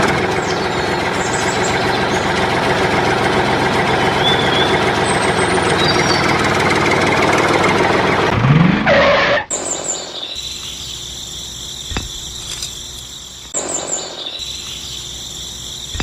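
Tractor engine running steadily and loudly for about nine seconds, then cutting off. A quieter, high steady whine with an occasional click follows.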